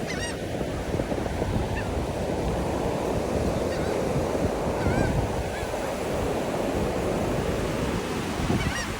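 Gulls giving several short, scattered calls over the steady rush of surf and wind on the microphone.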